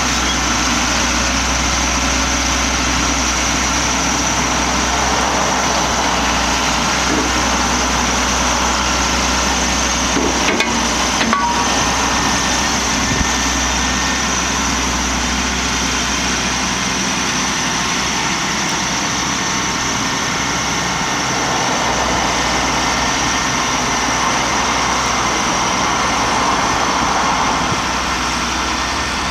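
Caterpillar M325C MH wheeled material handler's diesel engine running steadily, with a couple of short knocks about ten seconds in.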